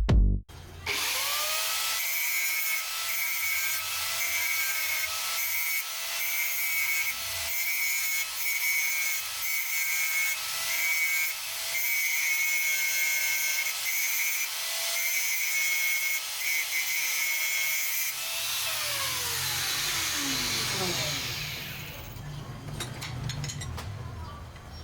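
Handheld electric power tool running at a steady speed, a high whine over a rasping hiss that pulses slightly. About 18 seconds in it is switched off and winds down with a falling pitch, leaving a low hum.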